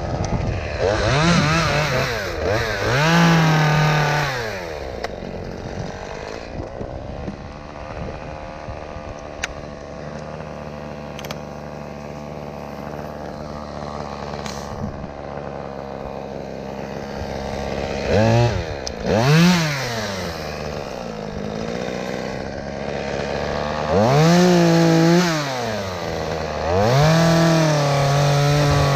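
Chainsaw revving up to full speed and dropping back to idle about five times, idling steadily for a long stretch in the middle, as it makes snap cuts through willow limbs.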